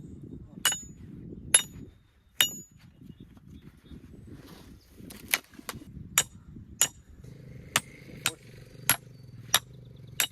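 Repeated hammer strikes on metal, each with a bright ring, about one every 0.6 seconds, with a pause of roughly three seconds about two seconds in.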